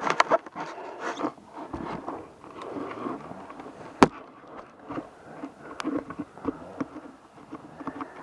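Off-road vehicle riding a rough, wet trail, with its engine mixed into a run of irregular clicks, knocks and rattles and one sharp crack about four seconds in.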